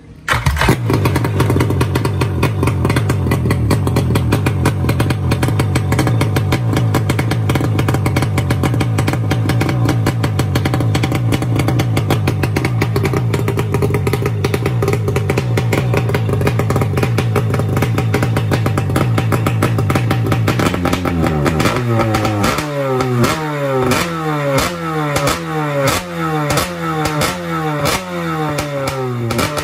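Kawasaki 650cc two-stroke engine with a belly expansion pipe, started with the starter: it fires up at once and runs steadily at a fast idle. About two-thirds of the way in it is revved repeatedly, roughly one throttle blip a second, the pitch rising and falling each time.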